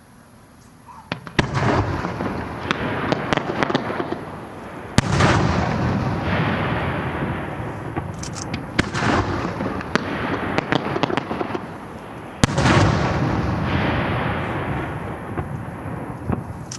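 Aerial firework shells bursting: four sharp reports about three to four seconds apart, each followed by dense crackling and a low rumble that fades away.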